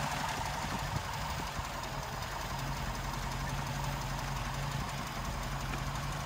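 Daimler 2.5-litre V8 idling steadily at about 650 rpm while the mixture is adjusted on its twin SU carburettors, being brought to just right so that the idle runs smoother.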